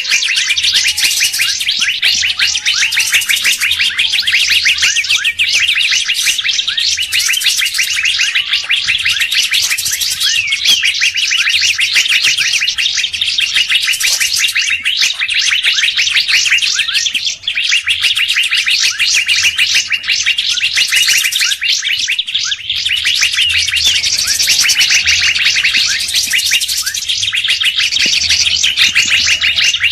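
Recorded bird-lure chorus: many small birds chirping rapidly and without pause in a dense, high-pitched wall of sound, with a few slurred whistles underneath.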